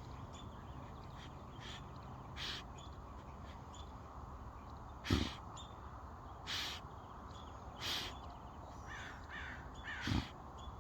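A dog snorting and snuffling with its nose in a ground squirrel burrow: a handful of short sharp exhales a second or more apart, with a few quick high squeaks near the end.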